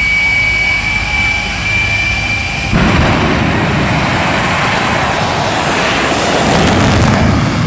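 A jet truck's jet engine whines steadily with a high tone. About three seconds in it jumps abruptly to a loud full-power roar, the sound of the truck's run down the drag strip.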